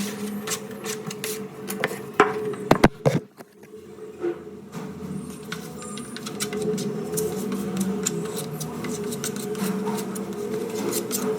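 Steady mechanical hum with scattered clicks, broken by a few sharp knocks about two to three seconds in.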